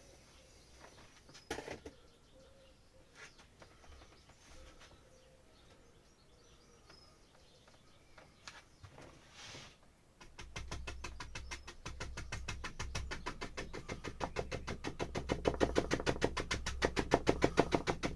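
Rapid, even knocking of a paintbrush, about eight knocks a second, starting about ten seconds in and growing louder toward the end, after a few faint taps.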